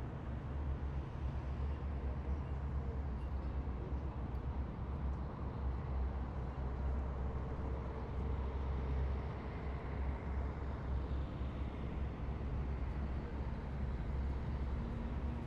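Heavy military vehicles' engines running in a column, a steady deep rumble with a faint held tone about eight seconds in.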